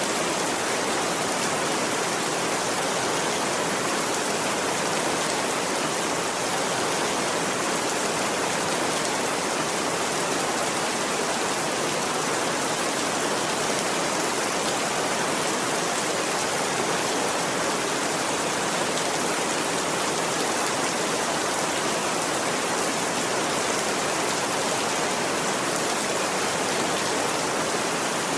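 Steady, even downpour of rain, a constant hiss with no breaks or changes.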